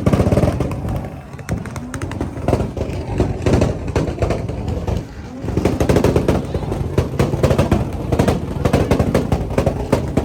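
Car engine held against a two-step launch limiter, its exhaust popping and cracking in rapid bursts over the engine's rumble, with a short lull about halfway.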